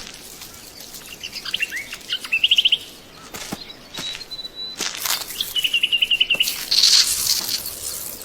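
Small birds chirping and trilling in short rapid bursts, with a brief thin whistle in between and a soft rustle near the end.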